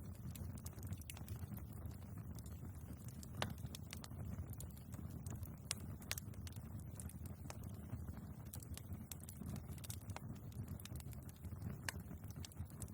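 Wood fire burning in a fireplace: a steady low rumble of the flames with irregular crackles and sharp pops from the logs, the loudest pops about three and a half and six seconds in.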